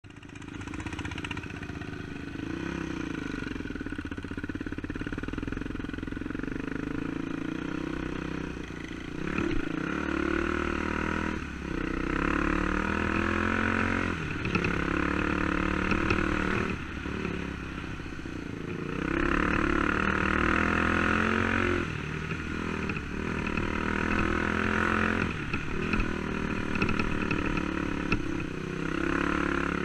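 Dirt bike engine running while riding, the throttle opening and easing off every few seconds, louder from about a third of the way in.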